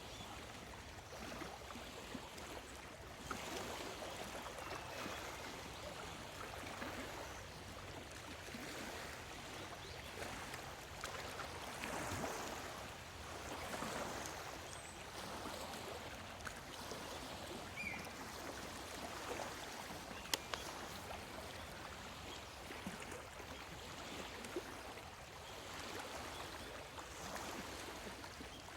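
Small lake waves lapping and washing on the shore, swelling and ebbing every couple of seconds. A couple of short bird chirps come in, and a single sharp click sounds about two-thirds of the way through.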